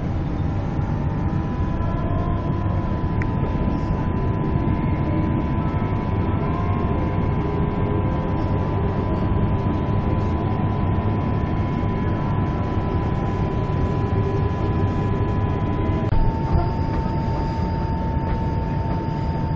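Inside the cabin of a moving NGR electric passenger train: a steady rumble of wheels on rails with a constant electric whine. About three-quarters of the way through, the whine steps down a little and a higher whine joins it as the train slows for the next station.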